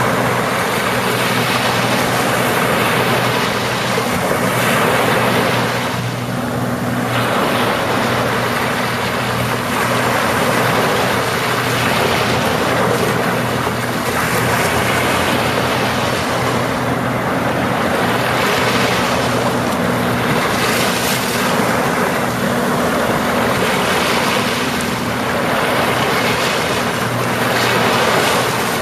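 Sea waves washing onto a beach: continuous surf that swells and ebbs every few seconds, with a steady low hum underneath.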